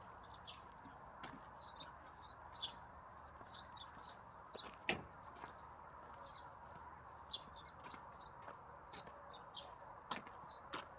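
Faint small birds chirping, short high chirps several times a second over a steady hiss, with three sharp clicks, the loudest about halfway through.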